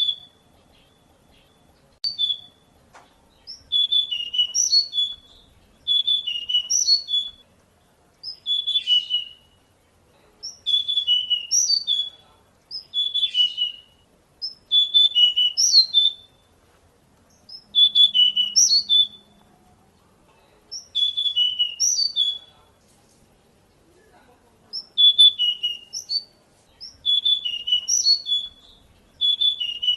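Pied bushchat singing: the same short, quick warbled phrase repeated about every two seconds, after a couple of single short calls at the start.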